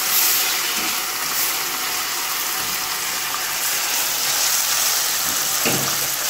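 Chayote and saltfish frying in oil in a stainless steel skillet while being stirred with a fork: a steady sizzling hiss.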